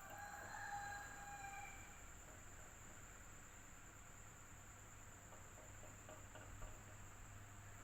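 Electric fan running faintly and steadily with a low hum and a thin high whine. In the first two seconds a few brief, faint, held tones sound over it.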